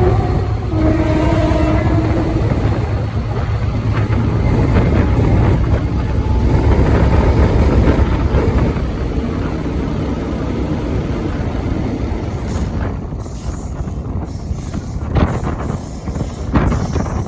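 Diesel locomotive sounding its horn about a second in, then running past with a heavy low engine rumble that fades away. Gusts of wind buffet the microphone near the end.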